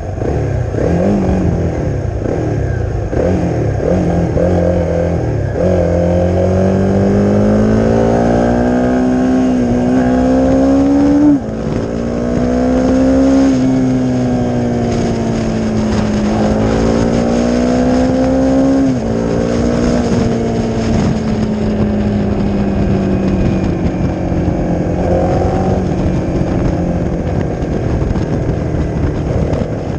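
Honda CRF250's single-cylinder four-stroke engine through a Leo Vince aftermarket exhaust, riding along. It blips up and down in short revs at first, then climbs in pitch with sudden drops about eleven and nineteen seconds in, like upshifts, before settling to a steady cruise.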